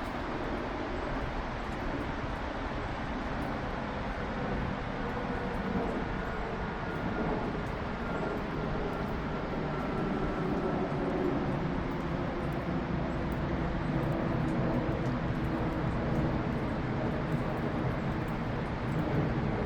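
Jet airliner flying overhead: a steady engine noise with faint tones that slowly fall in pitch, growing a little louder toward the end.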